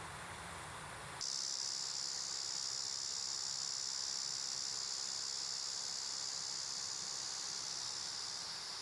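Flowing stream water, then, about a second in, an abrupt switch to a steady, high, continuous insect drone from a chorus of insects, with faint water noise underneath.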